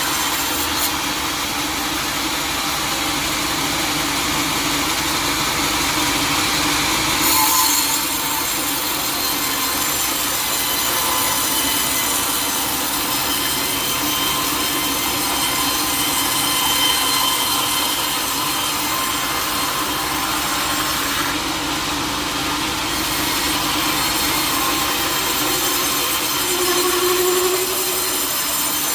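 Sawmill saw cutting through teak wood: a loud, steady noise of the blade running through the timber.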